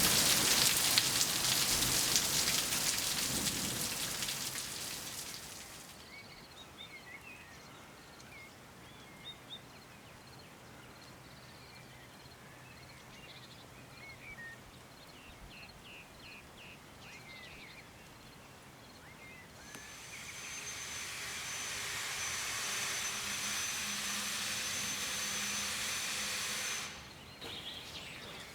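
Heavy rain hissing steadily during a thunderstorm, dying away after about six seconds. Small birds chirp in the quieter stretch that follows. Near the end another steady hiss, with a thin high whistle running through it, rises and then cuts off suddenly.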